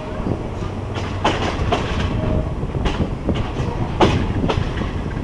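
Passenger train running on the rails: a steady low rumble with irregular sharp clacks of the wheels passing over rail joints, about one or two a second.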